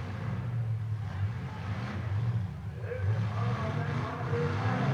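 Demolition derby car engines revving unevenly, the revs rising and falling as the cars manoeuvre against each other.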